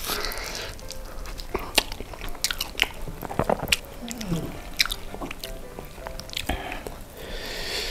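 Close-up biting and chewing of sauce-glazed fried chicken, with repeated sharp crunches of the crispy coating.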